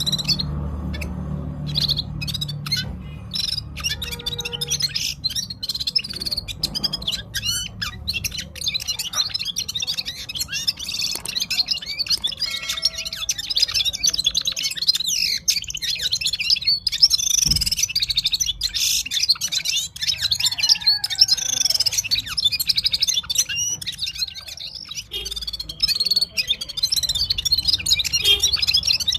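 Himalayan Gulsar songbird singing without pause: quick high chirps and warbled phrases in a dense, varied stream. A faint low hum sits underneath.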